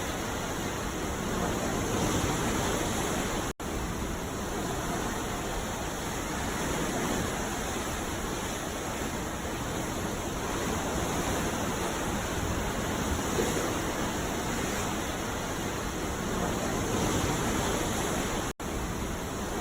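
Ocean surf washing on a beach: a steady, dense rush of water with gentle slow swells. The sound cuts out for an instant twice, about three and a half seconds in and near the end.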